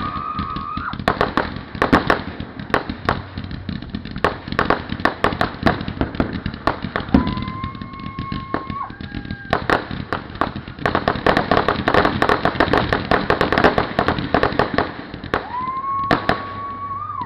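Fireworks display: rapid crackling pops and bangs throughout, thickest a little past the middle. A whistle rises and holds for a second or two three times, typical of whistling fireworks going up.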